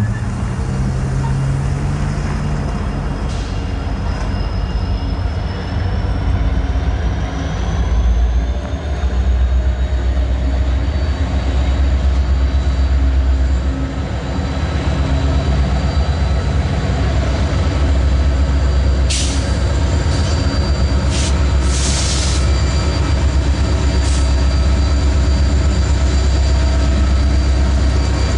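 Auto-rack freight train rolling past with a steady, deep rumble of wheels on rail and faint high wheel squeal. A few short hissy bursts come about two-thirds of the way through.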